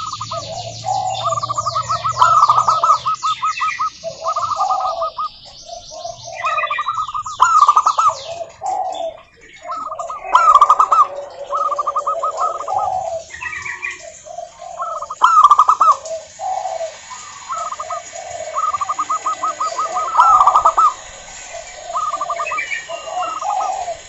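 Zebra doves (perkutut) singing, phrase after phrase of quick stuttering, trilled coos with short gaps between them. Higher, faster chirping runs over them at the start and again around eight seconds in.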